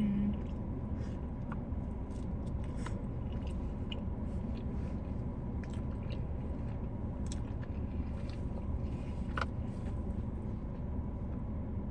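Close-up chewing and biting of food, with many small wet clicks and crunches, over a steady low hum.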